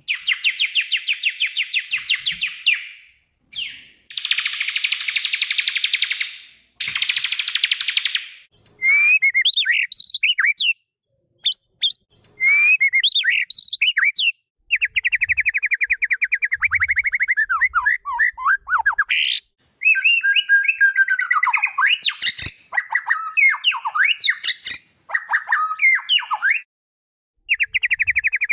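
White-rumped shama (murai batu) song: three bursts of very fast trilled notes, then a run of varied whistled phrases with quick rising and falling slurs and more rapid trills, separated by short pauses.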